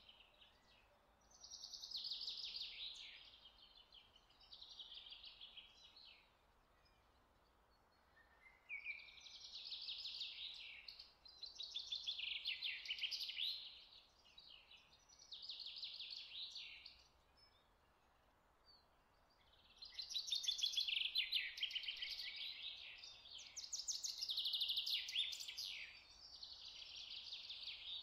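Birds singing in repeated fast trilled phrases, each one to two seconds long, with short pauses between them.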